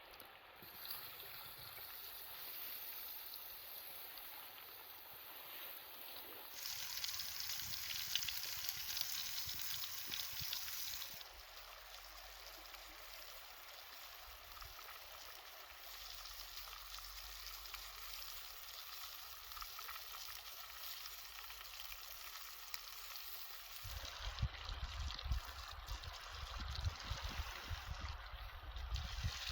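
Running water, like a mountain stream, heard as a steady rush through several abrupt cuts. Low rumbling thumps join it in the last few seconds.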